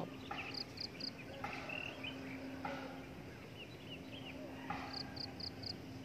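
Wild birds calling in the tree canopy: a quick run of three short, high, clear notes about half a second in and four more near the end, with scattered short chirps between. A faint steady hum runs underneath.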